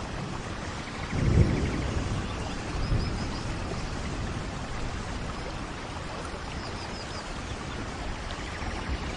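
Steady tropical rain falling, with a brief low rumble of distant thunder about a second in and a smaller one about three seconds in. Faint, short high bird chirps come through the rain a few times.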